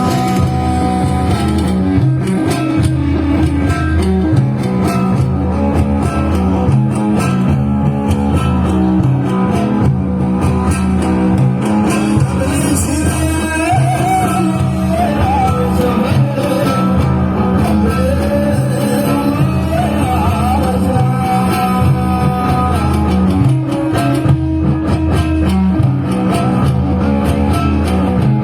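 Amplified live band music led by guitar over a steady bass line, with a voice singing a winding melody through the middle part.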